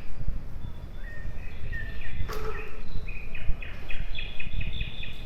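Birds chirping: scattered high calls, then a quick run of short repeated notes in the second half, over a steady low outdoor rumble.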